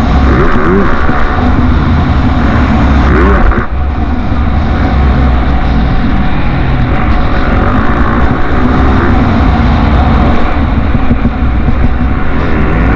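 Motocross bike engines running loud and revving up and down in pitch. The sound shifts abruptly about three and a half seconds in.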